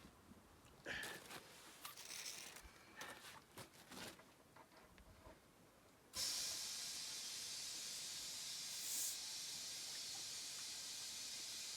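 Faint clicks and rubbing of hands working the inner tube and tyre, then about six seconds in a steady hiss of compressed air starts suddenly and runs on at an even level.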